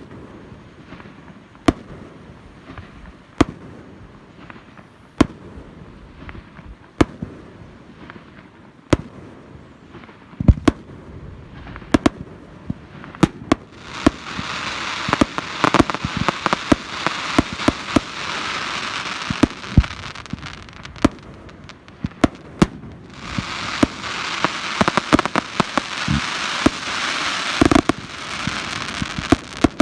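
Fireworks display: sharp bangs of bursting shells, spaced about every second and a half to two seconds at first, then coming thick and fast. Two long stretches of dense hiss, each several seconds long, fill the second half.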